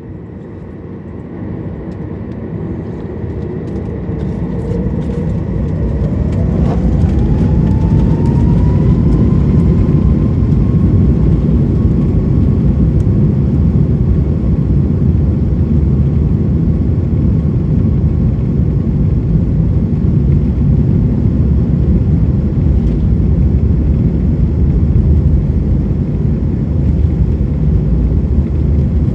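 Boeing 737 MAX 8's CFM LEAP-1B turbofan engines spooling up to takeoff thrust: a whine rises in pitch over the first several seconds as the sound grows louder. It then settles into a steady heavy roar during the takeoff roll.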